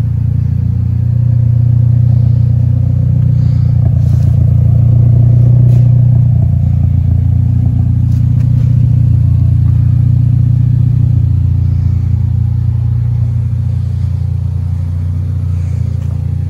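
Mitsubishi Lancer Evolution X's turbocharged four-cylinder engine idling with a steady low drone. A couple of seconds in it grows a little louder, then settles back.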